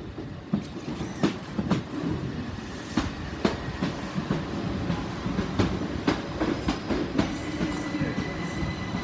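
Southern Class 377 Electrostar electric multiple unit running slowly into the station, its wheels knocking over rail joints and pointwork in an irregular clatter over a low rumble. A thin high squeal or whine joins in from about seven seconds in.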